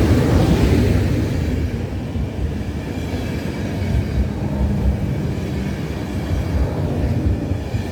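Intercity passenger train rolling past, its coaches' wheels rumbling with irregular clacks over the rail joints. It is loudest in the first second or so, then settles to a steady rumble.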